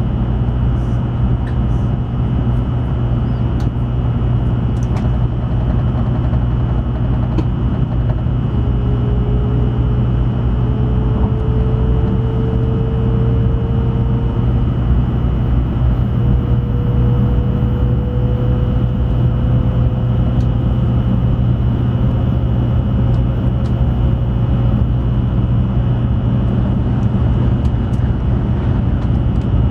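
Cabin running noise of an N700 series Shinkansen at speed: a steady low rumble and rush from the track and the air. From about eight seconds in, a faint whine slowly rises in pitch, the traction motors winding up as the train gains speed.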